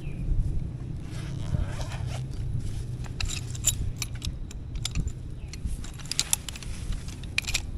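Clusters of light clinking and rattling from small hard objects being handled, over a steady low rumble.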